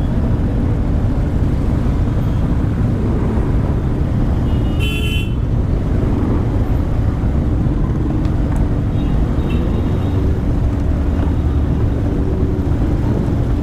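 Motorcycle engine running steadily with road noise while riding in a group, with a short vehicle horn honk about five seconds in and fainter horn tones a few seconds later.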